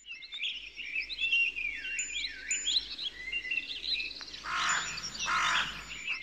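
Songbirds chirping and whistling in quick, swooping phrases, a soundscape of birdsong, with two short rushes of hissing noise past the middle.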